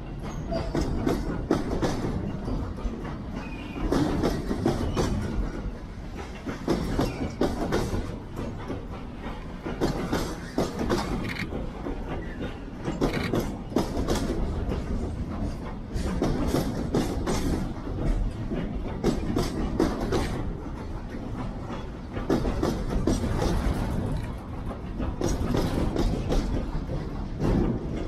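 A FEPASA freight train of tarpaulin-covered wagons rolls slowly past. Its steel wheels clack over the rail joints in irregular runs of knocks over a steady rumble, and the level swells and dips every few seconds.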